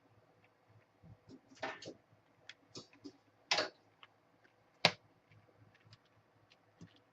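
Scattered small clicks, taps and short rustles of tools and small parts being handled on a workbench, with one sharp click about five seconds in.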